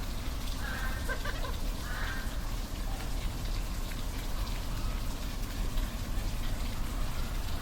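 Waterfall rushing steadily, with a few short animal calls in the first couple of seconds.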